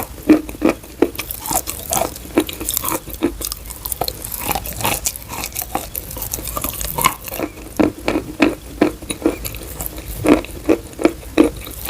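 Chalk being chewed close to the microphone: a quick, irregular run of crunches, with denser bursts of bites in the second half.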